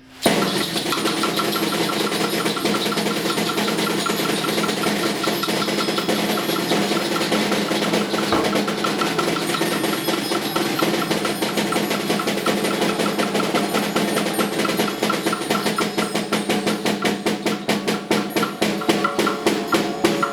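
Group percussion performance: many hand-played percussion instruments start together abruptly and keep up a dense, continuous rattling texture, which thins over the last few seconds into rapid separate strikes.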